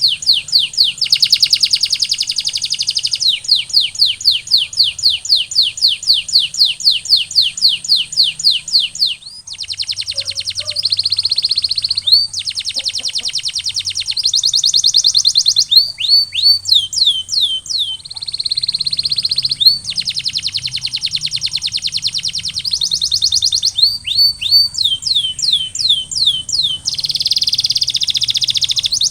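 Domestic canary singing a continuous song of rapid trills: long runs of fast, evenly repeated notes that switch to a new repeated phrase every couple of seconds, with a faint steady high tone behind.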